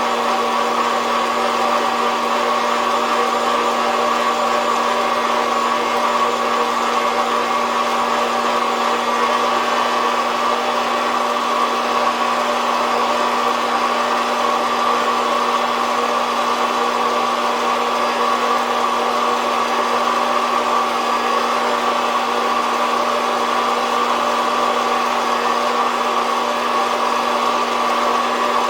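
SOUYI SY-121N hot-air coffee roaster running steadily, its fan blowing heated air through about 40 g of beans. The hum and whoosh hold even throughout, with no cracking heard.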